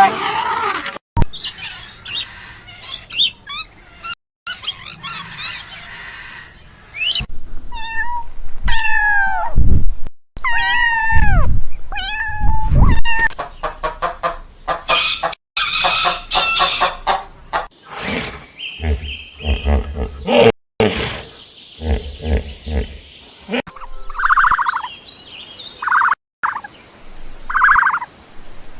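A string of different farm-animal calls, one short clip after another, with abrupt changes between them. Pitched, falling calls come in the middle, and a few short repeated calls come near the end.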